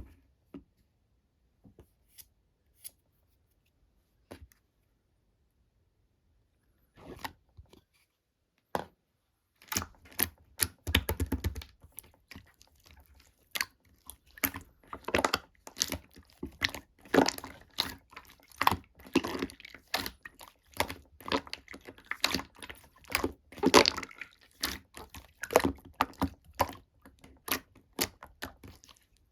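Slime being squished, pressed and stretched by hand, making sticky clicks and pops. Only a few scattered clicks at first, then from about ten seconds in a dense, irregular run of squelching clicks and crackles.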